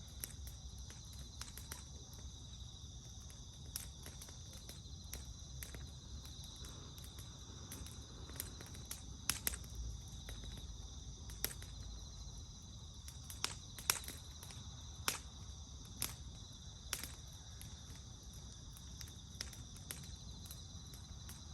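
Wood fire crackling, with irregular sharp pops of burning wood, a few louder ones between about 9 and 17 seconds in, over steady high insect trilling.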